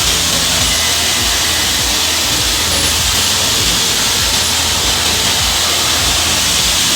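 Automatic moulding mitre saw running through its programmed cutting cycle: the saw blade and motor make a steady, loud hiss, with an uneven low throb underneath.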